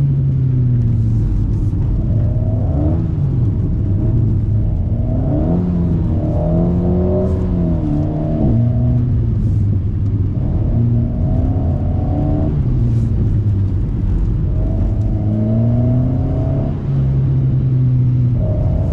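Alpine A110's turbocharged four-cylinder engine through a BDA Racing Track Evo stainless exhaust, heard from inside the car as it is driven hard: the engine note climbs and falls again and again as the car accelerates and lifts off, with a few sudden drops in pitch.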